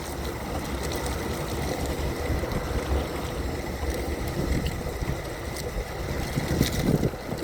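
Power wheelchair riding on wet pavement: a steady rumble of motor and tyres, with a faint steady whine.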